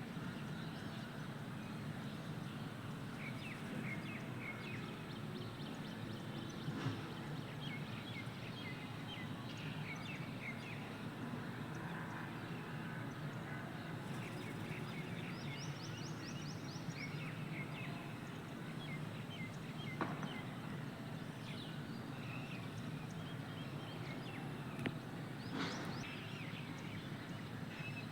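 Parakeets chirping in short, scattered calls over steady outdoor background noise, with a brief rapid trill about halfway through and a few sharp clicks.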